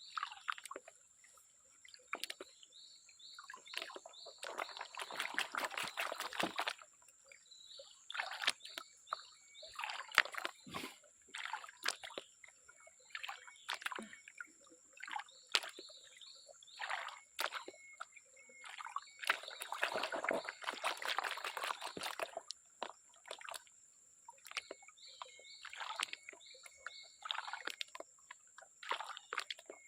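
Water sloshing and splashing in irregular bursts as a gold pan (dulang) is worked in a stream, with scattered clicks; the longest, loudest sloshes come about 4 s in and again about 20 s in.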